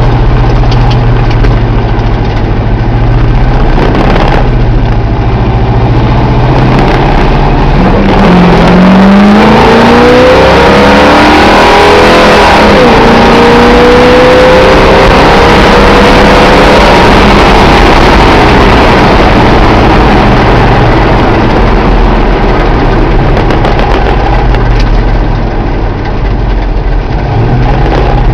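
1988 Dodge truck's 360 small-block V8 idling, then revved up about eight seconds in. It is held at higher rpm for several seconds and then eases back down to idle, with a short blip of the throttle near the end.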